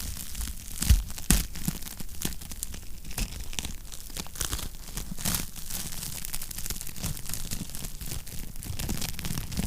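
Wood fire crackling in a fireplace: a continuous run of irregular small crackles and pops over a low rumble of the flames, with two louder pops about a second in.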